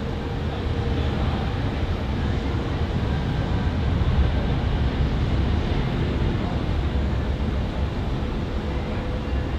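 Jet airliner's engines rumbling as it passes, swelling to a peak about four seconds in and easing off.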